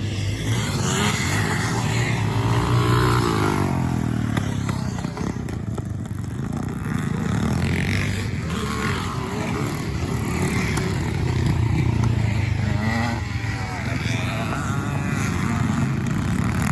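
Several classic scramble motorcycles racing past, their engines revving and changing pitch as they accelerate and back off, one overlapping another.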